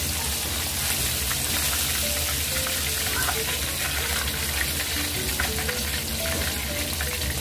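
Pork chops deep-frying in a wok of hot oil: a steady sizzle with many small crackles.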